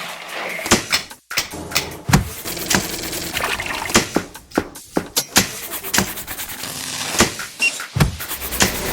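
A quick, irregular series of sharp clicks and knocks over a low noisy hiss.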